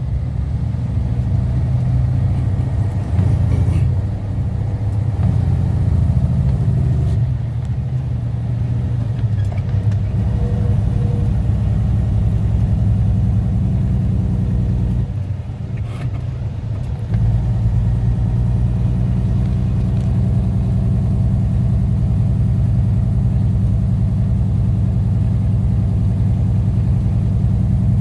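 Semi truck's diesel engine running with a steady low drone, dropping away for a second or two about halfway through and then picking back up.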